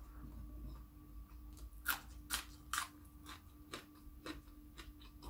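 A person chewing a mouthful of larb and sticky rice close to the microphone, with a run of wet clicks and smacks of the mouth; the three loudest come close together about two seconds in.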